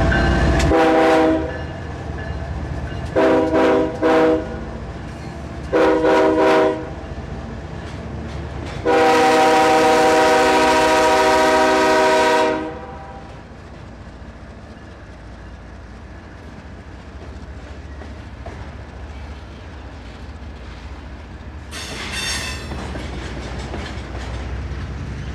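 Steady rumble of double-stack container cars rolling past, overlaid with a locomotive air horn sounding a series of blasts: a long one, several short ones, then a final long blast of about four seconds. After the horn only the rolling of the cars remains, with a burst of clattering about 22 seconds in.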